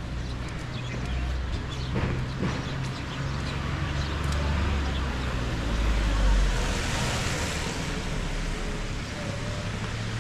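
Street traffic ambience: a steady low rumble of road vehicles, swelling as a vehicle passes about six seconds in, with scattered faint ticks.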